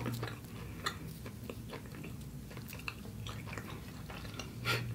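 Close-miked chewing and mouth sounds from eating: many soft, irregular little clicks and smacks over a faint steady hum.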